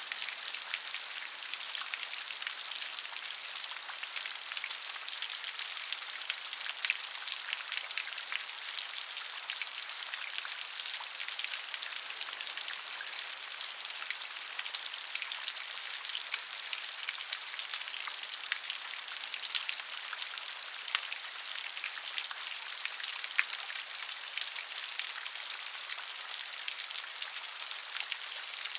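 Steady rain, a dense patter of many small drop ticks over an even hiss.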